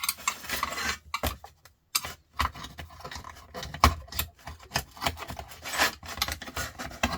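Metal scraping and rubbing on the parts of a sandwich maker being stripped for scrap, in irregular strokes with sharp clicks and knocks between them.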